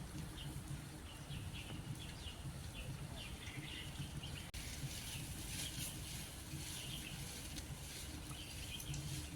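Forest birds chirping, many short high calls repeating throughout over a steady background hiss, with a brief dropout about halfway through.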